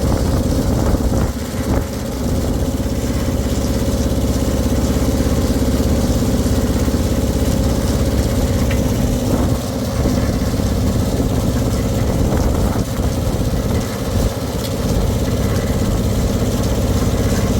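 An engine running steadily at idle, with a few brief dips in level.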